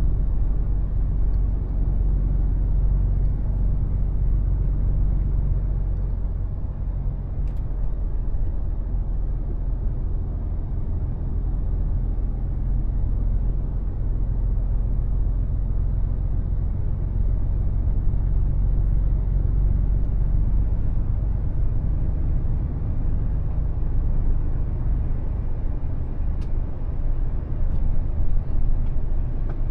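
Mercedes Actros truck's diesel engine running steadily, a low even hum, with tyre and road noise.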